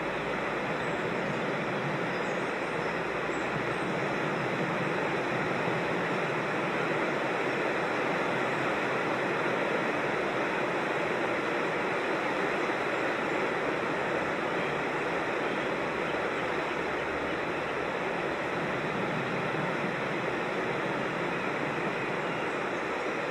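Steady rush of running water from a creek.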